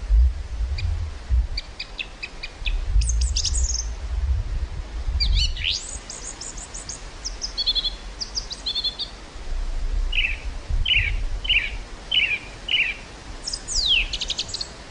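Songbirds singing, with quick high chirps, trills and fast sweeping notes throughout. Wind gusts rumble on the microphone, strongest in the first few seconds.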